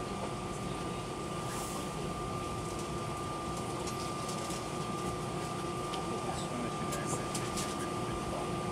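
Steady cabin noise of an Airbus A319 airliner taxiing after landing, with the engines at idle and the air conditioning running, and a steady whine over the rumble. A few light clicks come about seven seconds in.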